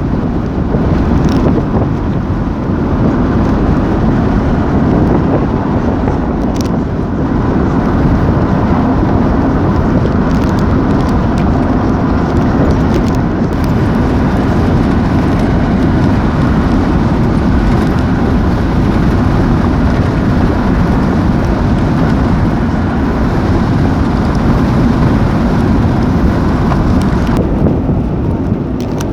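Strong wind blowing hard across the microphone: a loud, steady, low rumble that barely changes, dipping slightly near the end.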